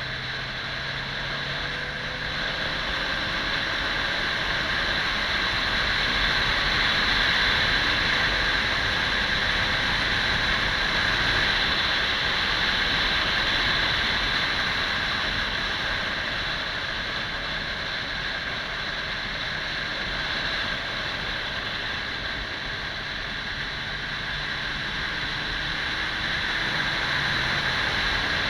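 Wind rushing over the microphone while riding a Kawasaki 400 cc motorcycle, the engine's note faint underneath and shifting slowly in pitch.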